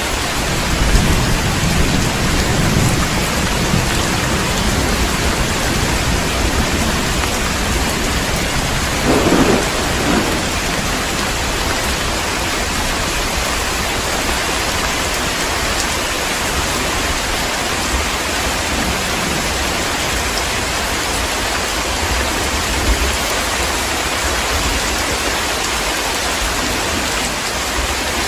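Heavy rain falling steadily, with low rolling thunder in the first few seconds and a short, louder thunder crack about nine seconds in.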